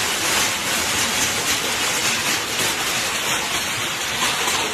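Hail and heavy rain pelting down in a dense, steady roar, with scattered sharper hits.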